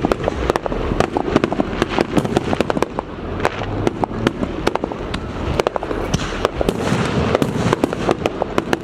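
Aerial fireworks display going off: a rapid, continuous string of sharp cracks and bangs, several a second, over a low rumble of explosions.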